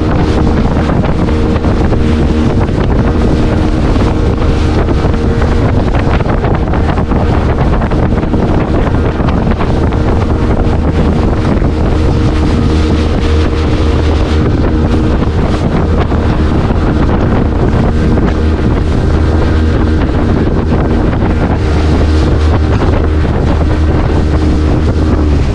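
Speedboat engine running steadily under way, a constant drone, with heavy wind buffeting the microphone.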